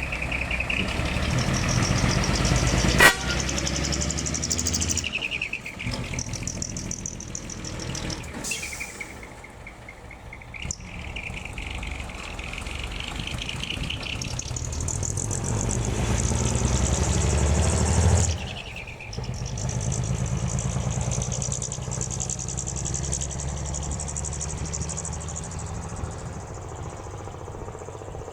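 Hino custom truck's diesel engine revving up and back down in waves, with a whistling whoosh from its intake and exhaust rising and falling in pitch along with the revs. A single sharp crack about three seconds in; the revs drop away suddenly a little past halfway.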